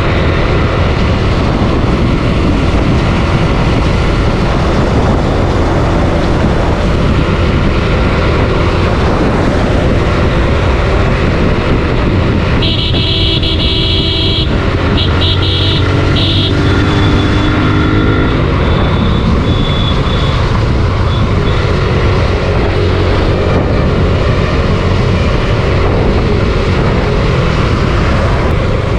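Suzuki Gixxer 155 single-cylinder motorcycle riding at speed, its engine running steadily under heavy wind and road noise on the helmet camera. About halfway through, a vehicle horn sounds in several short blasts.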